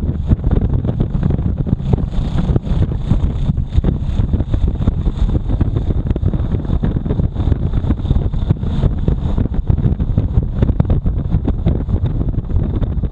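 Motorcycle riding at speed, with wind buffeting the microphone heavily over the engine.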